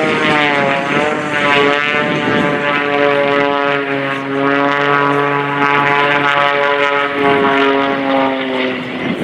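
Edge 540 aerobatic plane's piston engine and propeller running loud overhead at high power. The droning pitch dips and climbs again about two seconds in, then holds and sags slightly near the end as the plane manoeuvres past.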